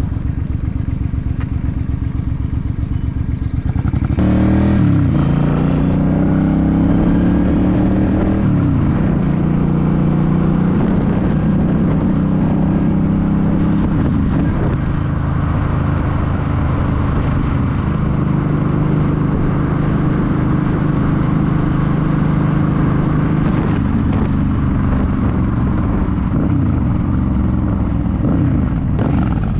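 Suzuki C50's 805 cc V-twin idling with a low, even beat. About four seconds in it revs as the bike pulls away, shifts up again a few seconds later, and then runs steadily at cruising speed.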